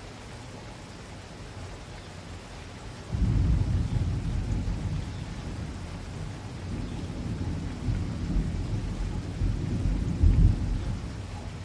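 Steady rain falling, then about three seconds in a sudden low rumble of thunder that rolls on for about eight seconds, swelling again near the end before fading.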